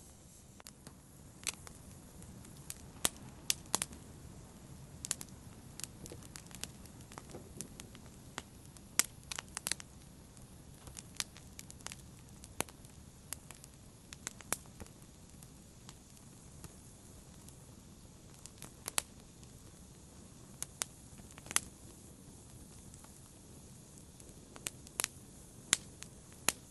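Fire crackling in a fireplace: irregular sharp pops, some in quick clusters, over a soft steady low hiss.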